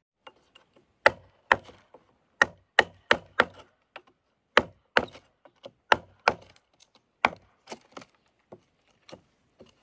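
A blade chopping into wood: about fifteen sharp strikes, irregularly spaced and often coming in quick runs of two to four.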